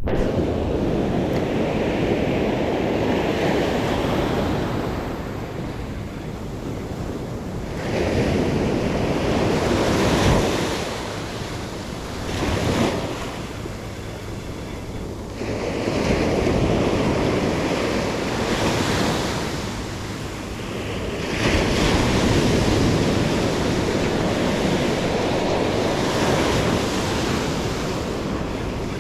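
Sea waves breaking on the beach, the surf swelling and falling back every few seconds, with wind buffeting the microphone.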